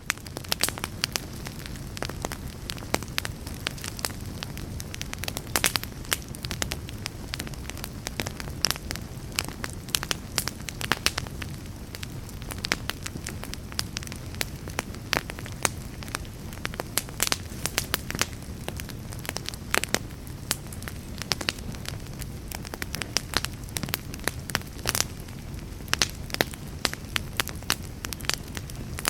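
Fireplace fire crackling steadily: frequent irregular sharp pops and snaps over a low, steady rumble of the flames.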